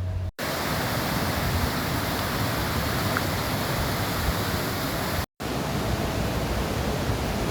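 Steady rush of white water tumbling through a narrow rock gorge. It is cut off twice by a brief moment of silence, once just after the start and once about two-thirds of the way through.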